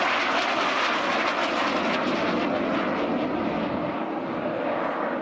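Hunting Percival Jet Provost jet trainer flying a display pass, its jet engine noise loud and steady.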